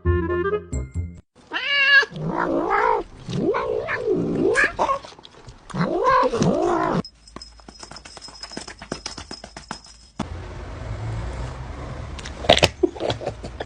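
A cat yowling in several long, wavering calls, followed by a few seconds of rustling and a sharp knock near the end. A short jingly tune ends about a second in.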